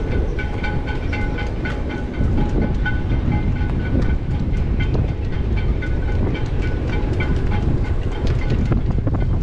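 Strong wind rumbling on the microphone, with a rapid, irregular clinking and ringing of sailboat rigging knocking against the metal masts of yachts laid up on the hard.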